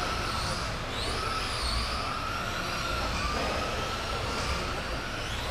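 Radio-controlled racing trucks running laps, their motors making high whines that rise and fall in pitch as they accelerate and brake, over a steady hiss of tyres on the track.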